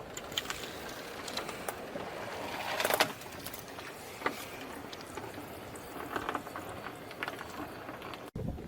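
Car tyre rolling slowly over brittle objects and crushing them: scattered crackles and snaps over a low rumble, the loudest snap about three seconds in.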